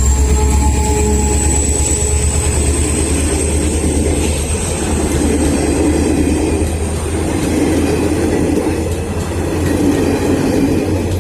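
Passenger train running past at speed, its coaches rumbling steadily on the track, with a thin high whine above the rumble.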